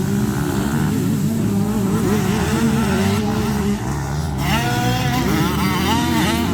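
Several motocross bikes racing, their engines revving up and down through the gears. About four and a half seconds in, a nearer bike's higher engine note comes up, rising and dropping in quick steps as it shifts.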